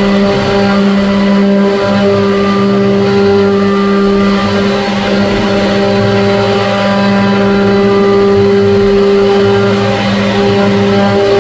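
CNC machine running: a steady motor whine with overtones that breaks off and shifts slightly in pitch every few seconds as the moves change.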